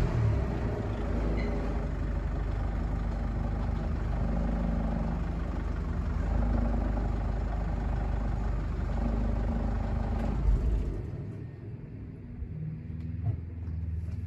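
Peugeot RCZ's 2.0 HDi four-cylinder turbodiesel idling steadily with its particulate filter, catalytic converter and EGR removed, heard through the original exhaust. About eleven seconds in, the engine's low rumble drops away sharply.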